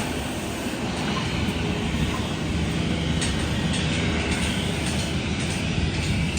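Steady low mechanical rumble with a few light clicks in the second half.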